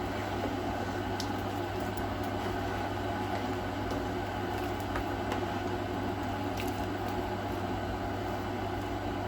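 Steady low hum of a running kitchen appliance, even throughout, with a few faint light ticks.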